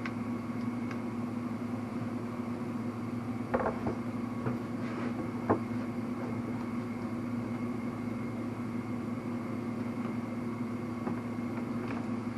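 A steady electrical hum, with a few light clicks a few seconds in from small tools and a wrist-pin circlip being worked into its groove in a piston.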